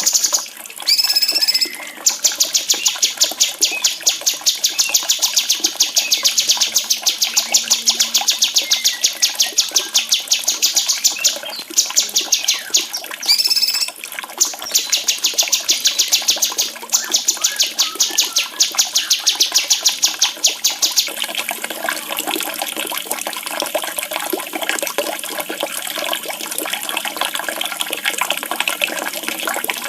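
A songbird delivering a long, very fast run of high repeated chirps, with a few short breaks, then falling silent about two-thirds of the way through as running water carries on alone.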